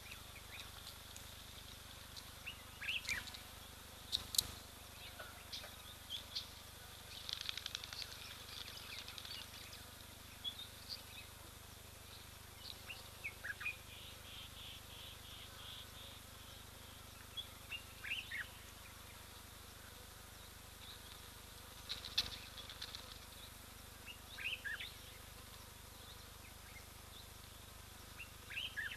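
Wild birds calling in short, scattered chirps and brief whistled notes over a faint steady background hiss, with a sharp click about four seconds in and another about 22 seconds in.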